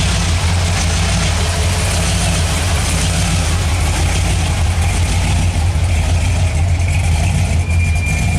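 A car engine running steadily with a deep low rumble. A thin, steady high tone comes in about a second before the end.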